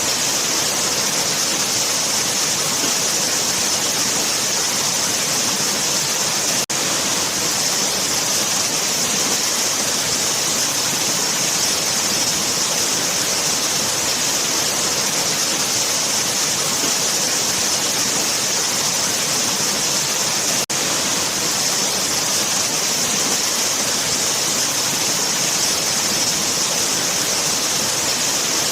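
Waterfall: a steady, dense rush of falling water with a bright hiss on top, broken by two momentary dropouts about a quarter and three quarters of the way through.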